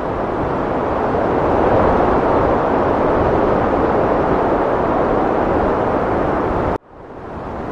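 Heavy wind blowing as a steady, loud rush, swelling over the first two seconds. Near the end it cuts out abruptly for an instant and then fades back in, the join in the looped recording.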